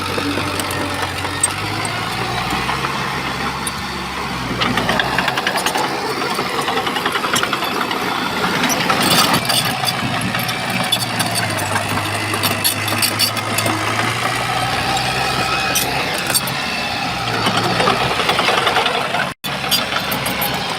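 Shantui bulldozer's diesel engine working, louder under load from about four and a half seconds in and again near the end, with many short sharp knocks and clatter. The sound cuts out for an instant shortly before the end.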